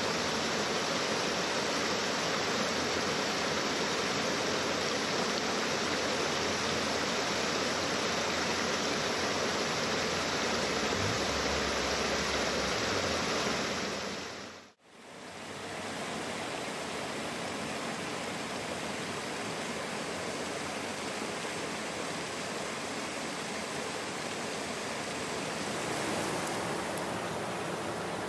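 Steady rush of flowing river water, briefly dropping out about halfway through before carrying on.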